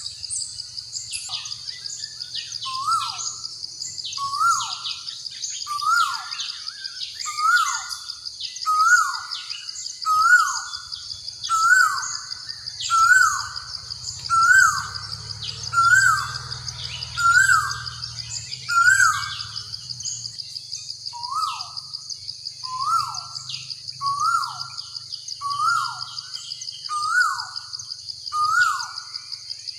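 A bird calling over and over, each call a short note that rises sharply and then drops, about once every second and a half, with one brief pause about two-thirds of the way through. Behind it is a steady, high, trilling buzz.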